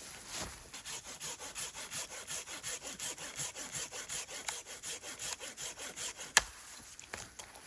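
Hand saw cutting through firewood in quick, even strokes, about four a second. The sawing stops about six seconds in, followed by a single sharp crack.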